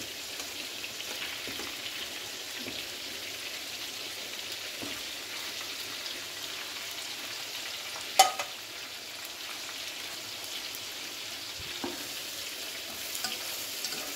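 Nuggets sizzling steadily as they shallow-fry in a pan of hot oil, an even hiss, with one sharp knock about eight seconds in.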